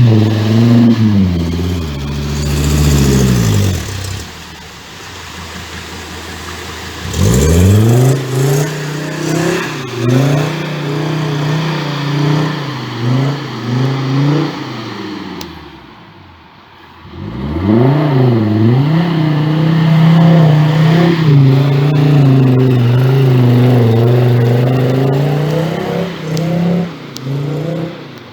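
Volkswagen Golf II Country's engine revving hard and easing off over and over, its pitch sweeping up and down. It drops low for a few seconds about four seconds in and dips briefly again around sixteen seconds before picking back up.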